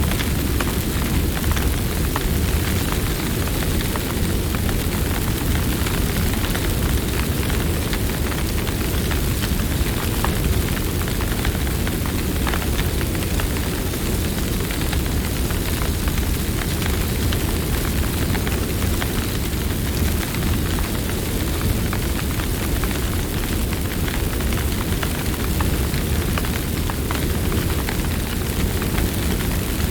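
Campfire burning: a steady low rush of flames with scattered sharp crackles and pops from the burning wood.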